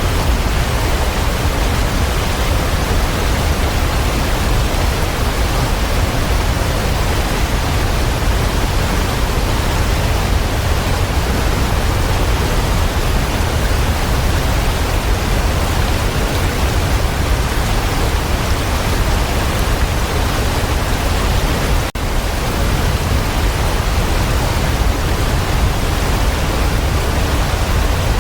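Waterfall rushing in a steady, dense roar of falling water, with a split-second dropout about three quarters of the way through.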